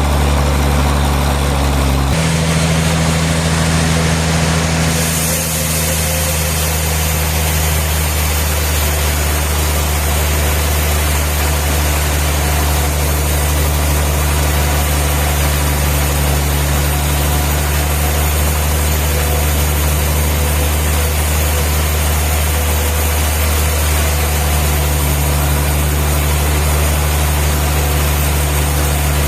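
Sawmill machinery running steadily: a low engine hum under a broad mechanical noise, with sudden shifts in the sound about two and five seconds in.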